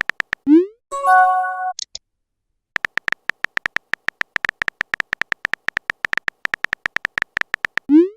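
Phone texting sound effects: a few keyboard taps, a rising swoosh as a message is sent about half a second in, then a chiming message-received tone. From about three seconds in comes a long run of rapid keyboard clicks, several a second, ending in another send swoosh.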